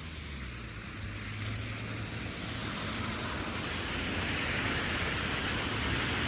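Steady rushing of blizzard wind and street traffic, growing slowly louder, over a low engine hum.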